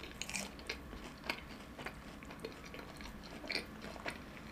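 Close-miked chewing with the mouth closed: a chewy, mochi-like fried cheese ball with a sweet-potato paste filling, giving soft, irregular wet clicks and smacks about every half second.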